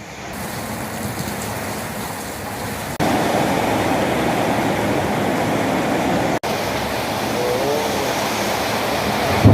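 Storm wind and heavy rain making a steady rushing noise, which turns abruptly louder about three seconds in.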